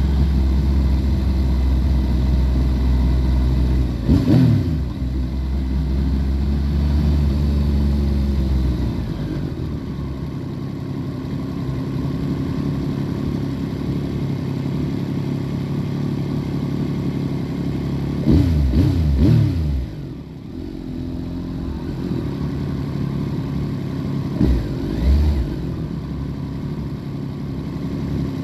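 2014 Yamaha FZ-09's inline-three engine, breathing through an Akrapovic full exhaust system, running and heard muffled from under the seat. The revs rise and fall quickly about four seconds in and several times between eighteen and twenty seconds.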